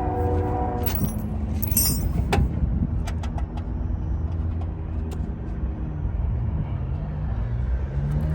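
A car driving past, its engine note climbing in pitch and getting louder toward the end over a steady low rumble. A few light metallic clicks come a second or two in.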